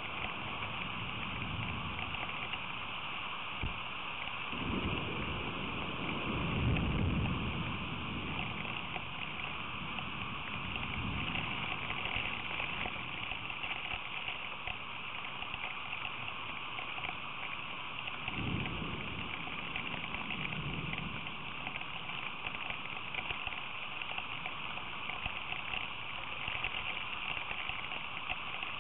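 Steady hiss of heavy rain falling, with two low rumbles swelling and fading, one about five seconds in and another about eighteen seconds in.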